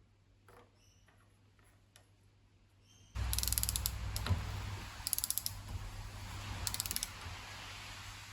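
A hand ratchet clicking in three short, quick bursts during fork work, starting about three seconds in.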